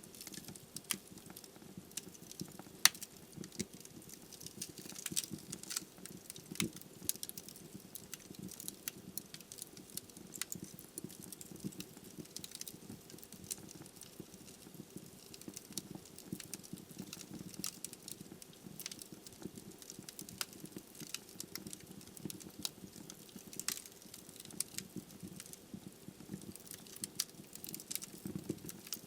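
Wood fire crackling: irregular sharp pops and snaps from burning logs over a low steady rumble of the flames.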